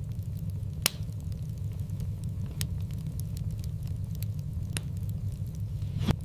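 Wood fire in a fireplace crackling over a steady low rumble, with scattered small ticks and a few sharp pops, the loudest about a second in and near the end.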